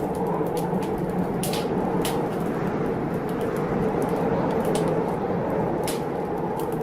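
Blizzard wind blowing in a steady rush, with a wood fire crackling in a fireplace: sharp, scattered pops come at irregular intervals, several times over the few seconds.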